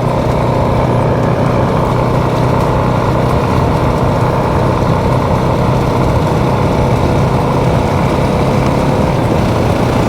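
Motorcycle engine running at a steady cruise with wind and road noise, an even drone with no change in speed.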